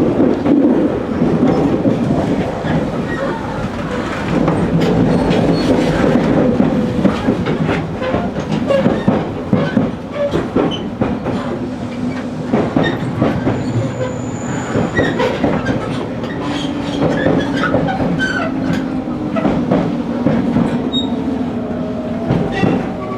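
JR Kyushu 813 series electric multiple unit running at speed, heard from the driver's cab: a steady rumble with rapid clicks of the wheels over rail joints. A brief high squeal comes about two-thirds of the way through, and a humming tone begins to rise near the end.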